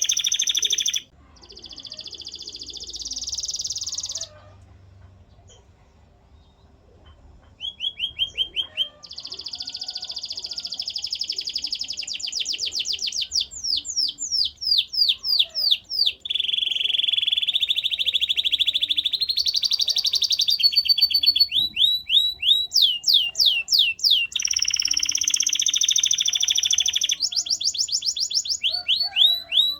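Canary singing: fast rolling trills and runs of quick repeated sweeping notes, breaking off for about four seconds near the start before the song resumes.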